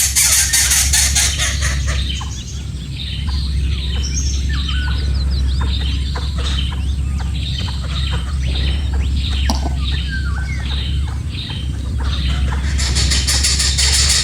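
Bird chirping: a long run of short, repeated high calls over a steady low hum, starting about two seconds in and stopping shortly before the end.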